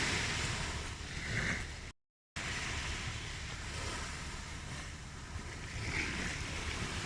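Recorded ocean waves washing in, a steady surf hiss with gentle swells, broken by a split second of total silence about two seconds in.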